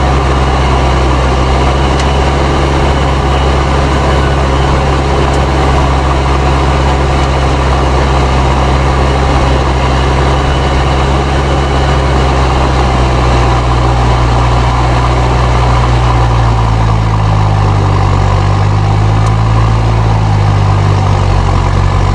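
Fendt 307 Ci tractor's turbocharged diesel engine running steadily, with its turbo whistling. About two-thirds of the way through, the engine note starts to shift and waver in pitch.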